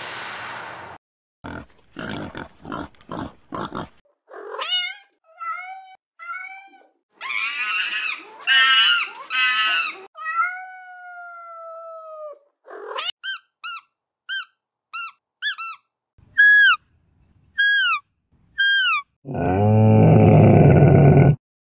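A string of separate bird calls: several whistled and harsh calls, then a run of short, sharp, downward-sweeping chirps at about one a second, and a loud, harsh call near the end. A few clicks come before the calls.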